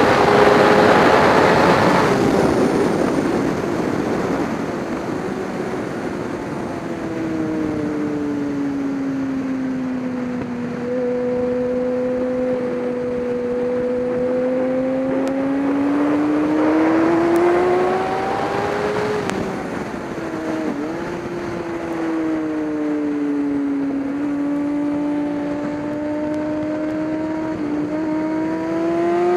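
Race car engine at varying throttle: its note falls for several seconds and holds low, then climbs, drops suddenly about two-thirds through, holds low again and climbs near the end. A louder rushing noise sits over the engine for the first two seconds.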